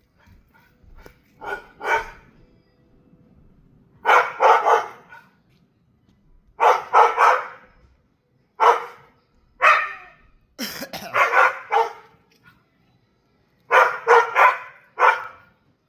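A dog barking in short runs of one to three barks, separated by pauses of a second or two, repeated many times: alert barking at a squirrel or bird.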